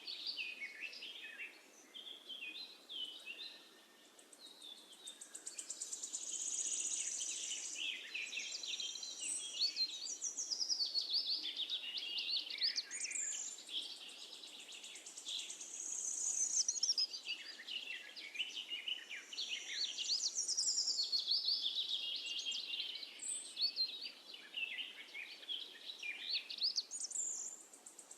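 A dense chorus of songbirds chirping and trilling, calls overlapping throughout, over a faint steady hiss.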